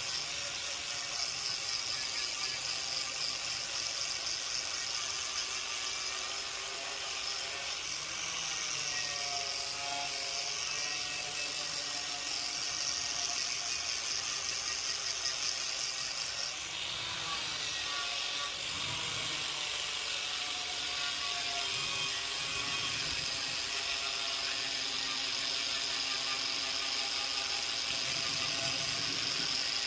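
An electric power tool or machine motor running continuously with a steady whir and a gritty hiss, its pitch wavering slightly now and then as the load changes.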